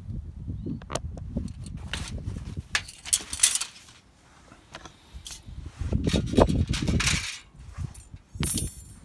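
Rustling, knocks and light clinks of gear being handled, with a brief scrape or jingle twice, about three seconds in and near the end.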